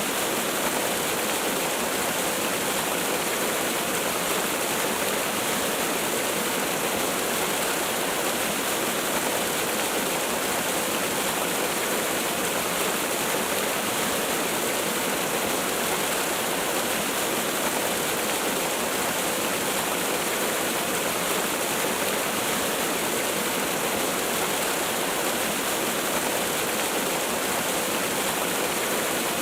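Waterfall: a steady, even rush of falling water that does not change, hissy with little deep rumble.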